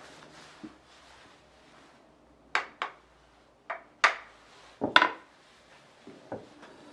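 A small hammer tapping a Japanese plane (kanna) to adjust the blade: six or so sharp wooden knocks, irregularly spaced, coming as two quick pairs and a loudest double strike about five seconds in.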